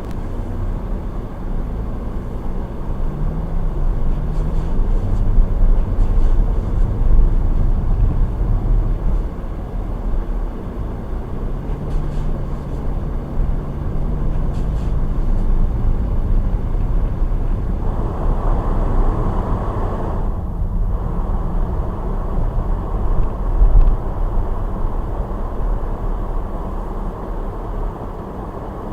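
Car driving on a snowy road: a steady low rumble of engine and tyres, with the engine pitch rising and falling a few seconds in. Near the middle comes a louder rushing hiss lasting about two seconds.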